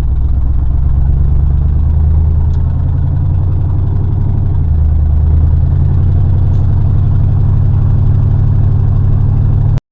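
Pickup truck engine and road noise while driving, a steady low drone that cuts off suddenly near the end.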